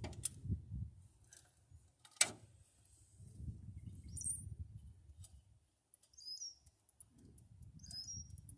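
A small bird chirps three times in short, high, falling calls, about four, six and eight seconds in. A single sharp click sounds about two seconds in, under a low rumble that comes and goes.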